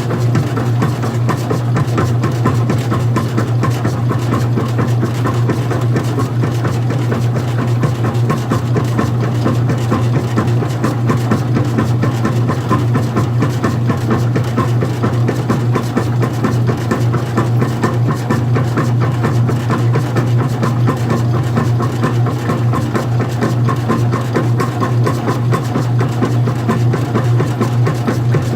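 Old-style front-loading washing machine running mid-cycle: a loud, steady low hum with a fast, constant rattle over it.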